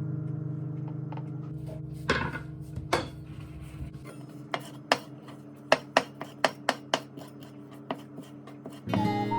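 Sharp kitchen taps and clinks, utensils knocking against dishes or a board, with a quick run of about eight taps around six seconds in. A held guitar chord fades underneath, and guitar music with a whistled tune starts again near the end.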